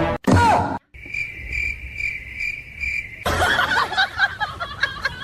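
Cricket chirping: a steady, clean, high trill pulsing about five times, starting abruptly just after a brief loud sound that falls in pitch. About three seconds in it cuts off and gives way to a busy jumble of short squeaky, gliding sounds.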